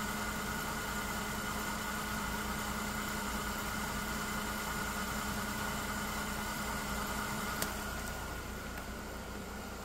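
Mercedes-Benz M272 V6 engine idling steadily, heard from beneath the car, with a single sharp click near the end.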